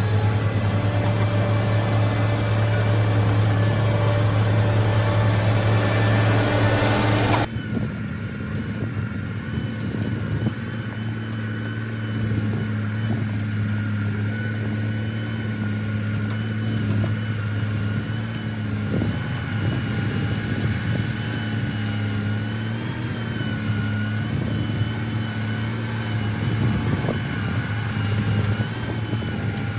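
Diesel engine of heavy earthmoving machinery such as a bulldozer running steadily, with a deep constant hum. The sound changes abruptly about seven seconds in, where the high hiss drops away and the engine note carries on.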